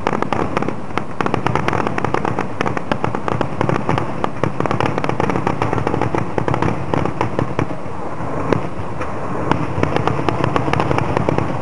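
Aerial fireworks bursting in rapid succession: a dense, unbroken run of bangs and crackles over a constant low rumble.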